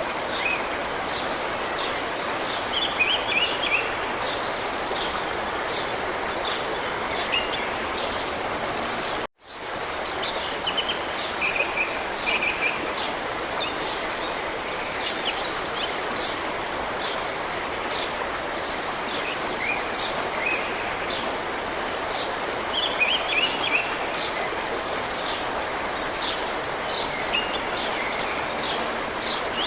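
Small birds chirping and twittering over a steady outdoor hiss, with the sound cutting out briefly about a third of the way through.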